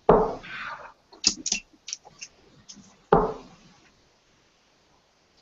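Two darts striking a dartboard about three seconds apart, each a sharp thud that dies away, with light clicks in between.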